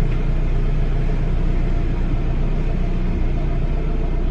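Fiat 500 Pop's four-cylinder engine idling steadily, heard from inside the cabin. It was started only after several failed cranks, following a long time unused, and it is running with the check-engine warning lit.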